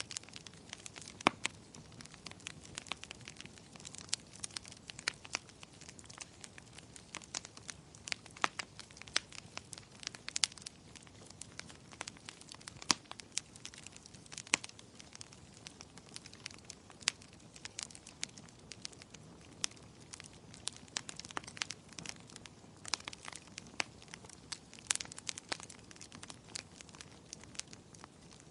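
Wood fire burning in a fireplace, crackling with frequent sharp, irregular pops over a low steady hiss.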